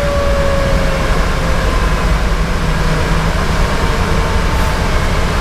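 Federal Q2B mechanical siren winding down, its pitch slowly falling and fading, over the steady rumble of the fire engine's Detroit Series 60 diesel and road noise.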